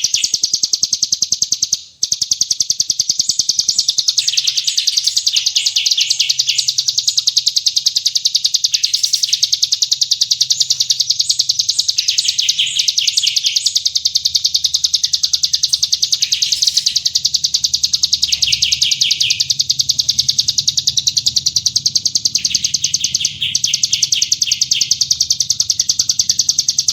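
Masteran bird-song training recording: small songbirds giving a dense, unbroken stream of sharp, very rapid high chirps and trills, with lower rattling trills breaking in every few seconds. The sound cuts out for an instant about two seconds in.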